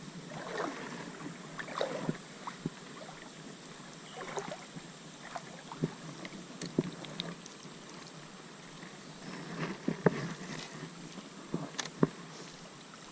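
Creek water running steadily, with scattered short clicks and knocks over it, the sharpest about ten and twelve seconds in.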